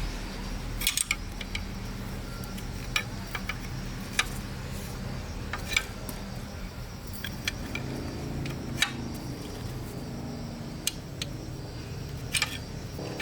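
Light metallic clinks and taps at irregular intervals, typical of metal engine parts and tools being handled, over a steady low hum.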